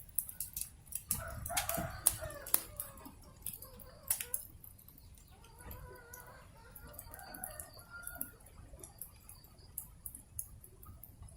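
Wood fire crackling and popping, the pops densest and loudest in the first few seconds, while a rooster crows twice, the second crow about six seconds in and quieter.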